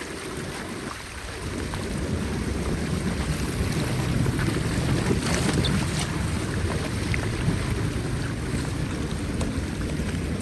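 Floodwater rushing and churning, a steady low rumble that swells slightly about a second in.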